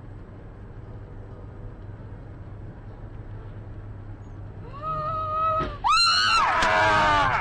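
Steady low vehicle hum, then a person screams twice: a shorter rising scream a little before the five-second mark, then a louder, longer one that sweeps up and falls and is cut off abruptly.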